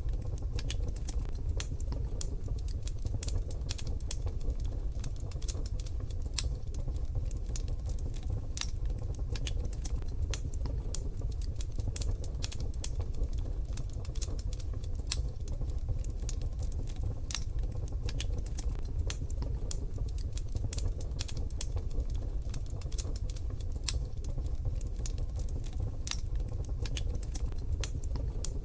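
Wood fire crackling in a wood-burning stove: a steady run of sharp, irregular pops and snaps over a steady low rumble.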